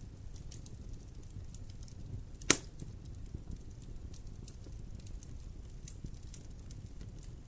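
Wood fire burning in a fireplace: a low steady rumble with small scattered crackles, and one loud sharp pop about two and a half seconds in.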